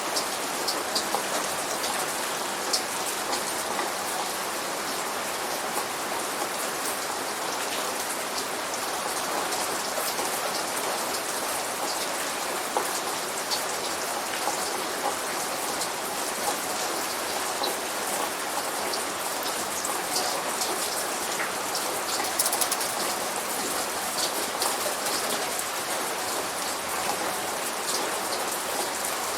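Light rain falling steadily: an even hiss with scattered sharp ticks of drops hitting a surface, a few louder ones about three-quarters of the way through.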